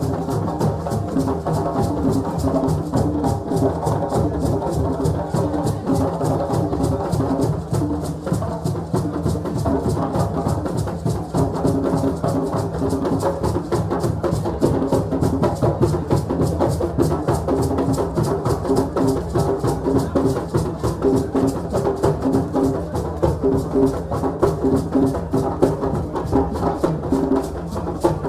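West African celebration drumming: several drums and other percussion playing a fast, steady, dense rhythm.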